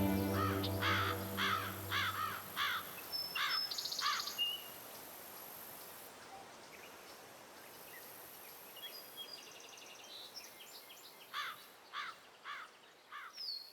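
A bird calling a repeated arched note about twice a second, in two bouts separated by a quieter stretch, with a few higher whistled trills mixed in, over a faint outdoor hiss.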